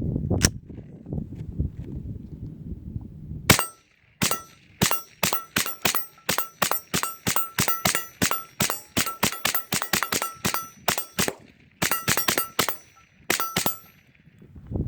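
Suppressed Kel-Tec CMR-30 .22 Magnum carbine firing a rapid semi-automatic string of about thirty shots, roughly three a second, each shot a sharp crack with a brief metallic ring. The string starts about three and a half seconds in, after low rumbling noise, and ends a second before the end.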